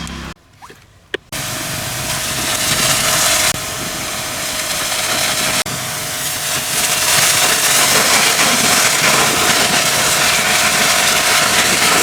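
High-pressure washer spraying: a loud, steady hiss of the water jet over a steady pump tone. It starts about a second in, after a brief near-quiet moment and a click.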